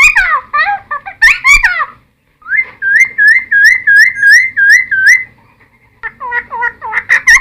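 Cucak timor (helmeted friarbird) singing loud, varied whistled and chattering phrases. About two and a half seconds in comes a run of about eight identical rising-falling notes, roughly three a second, then a short pause before varied phrases resume.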